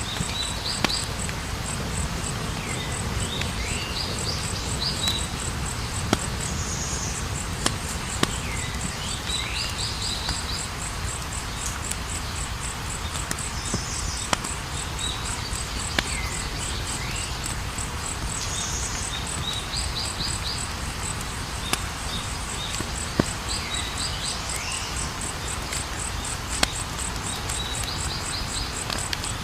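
Campfire burning with a low steady rumble and a sharp crackle or pop every few seconds, under the fast steady trill of crickets. A short chirping call with falling notes repeats about every five seconds.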